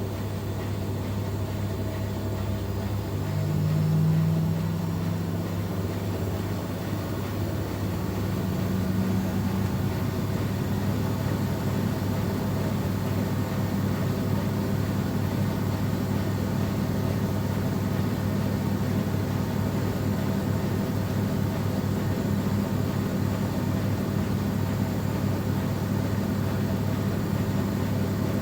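Miele Professional PW 6065 Vario washing machine in its final spin at up to 1200 rpm, the drum running with a steady hum. The hum swells briefly about four seconds in and settles into a slightly higher tone a few seconds later.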